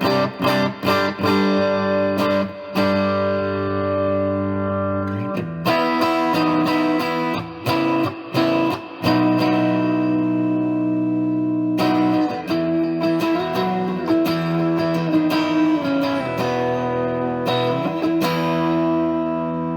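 Electric guitar with its neck and middle pickups selected, played through a Klon-style Silver Horse mini overdrive pedal into a Boss Katana amp with the pedal switched on. It is a chord part: short strummed chords with quick stops in the first few seconds, then longer ringing chords.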